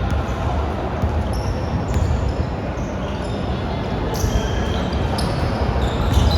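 Basketball game play on an indoor court: the ball bouncing on the floor and short high sneaker squeaks a few times, over a steady echoing gym rumble with faint voices.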